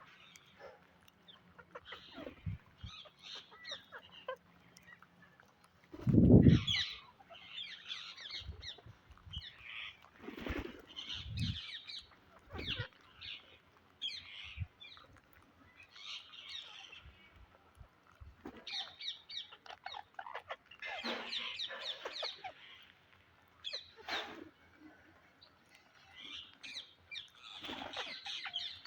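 Pet Psittacula parakeets calling and chattering in short, scratchy squawks throughout, busier in the second half. A loud low thud about six seconds in stands out above the calls.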